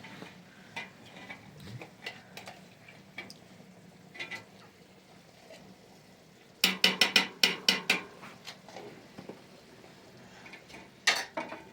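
Metal cooking utensils and dishes clinking and knocking against pots, with scattered light clicks and a quick run of about eight sharp knocks past the middle, then two more near the end.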